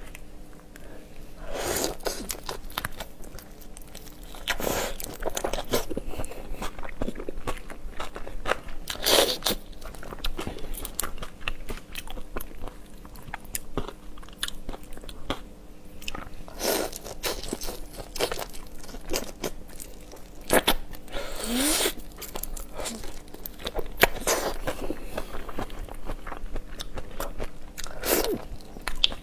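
A person biting into and chewing seafood: close-up crunching and crackling of shells and flesh, with a few louder crunches every several seconds among steady small crackles.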